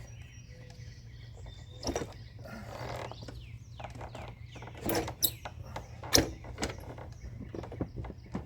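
Scattered clicks, clanks and knocks of hand tools and metal parts being handled in a truck's engine bay, with the loudest knocks about two, five and six seconds in.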